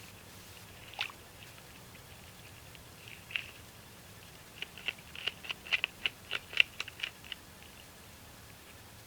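North American beaver gnawing on a branch: sharp crunching bites, a few at first, then a quick run of them from about four and a half to seven and a half seconds in.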